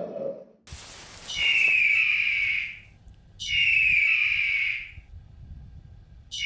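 An animal's high, whistle-like call, a little over a second long and falling slightly in pitch, given three times about two to three seconds apart.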